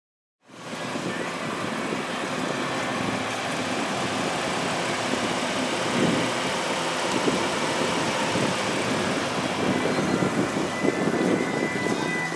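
Vehicle traffic noise fading in about half a second in, then holding steady with a few swells as vehicles pass.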